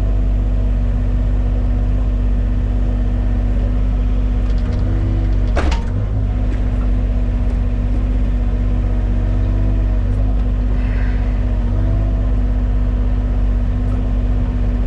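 Diesel engine of a mini excavator running steadily, with brief shifts in pitch as the hydraulics are worked. About five and a half seconds in comes a single sharp metal clank during the bucket change.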